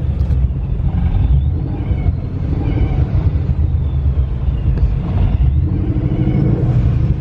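Steady low rumble of a car engine and exhaust.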